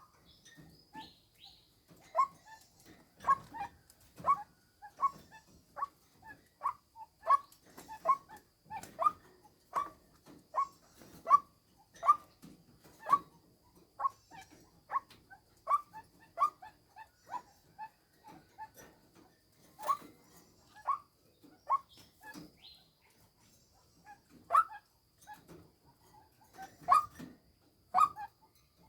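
White-breasted waterhen's female call, the kind played as a decoy to lure males: short, sharp notes repeated about once or twice a second, with brief pauses and a few louder notes near the end.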